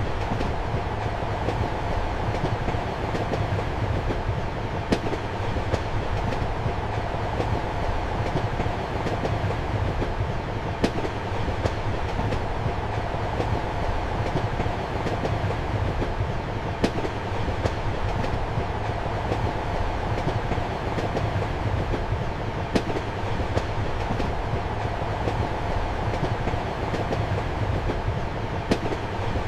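Passenger train running steadily, heard from inside a compartment: a continuous rumble and hum, with sharp clicks of the wheels over rail joints, the loudest about every six seconds.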